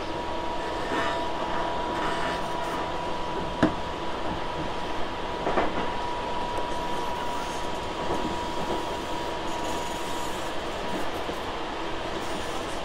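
Tobu 6050-series electric train running, heard from inside the car: a steady rumble of wheels on rails with a held high tone that stops about ten seconds in, and one sharp knock a few seconds in.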